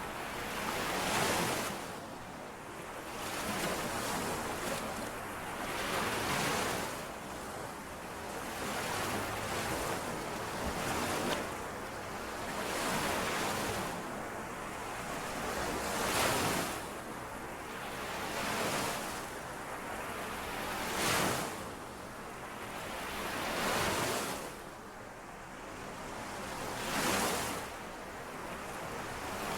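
Small lake waves washing in and out on the shore, one soft wash every two to three seconds.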